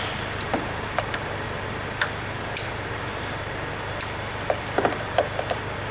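Scattered sharp metallic clicks and taps of hand tools working on an engine during reassembly, with a cluster of quick clicks about two-thirds of the way in, over a steady low workshop hum.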